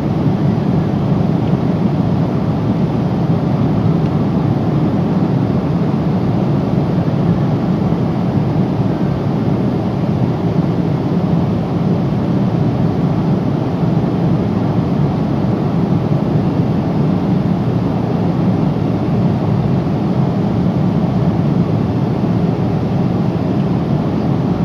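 Steady cabin noise inside a Boeing 777-300 airliner at cruise: a constant low rush of airflow and engine drone.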